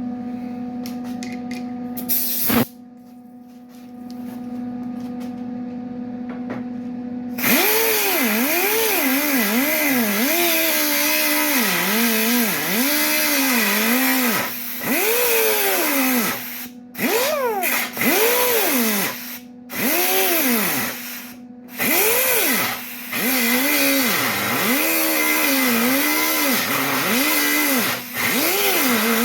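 Handheld electric grinder working on sheet steel in several long passes over a steady hum. Its motor pitch sags and recovers again and again as it is pressed into the metal, with short pauses between passes.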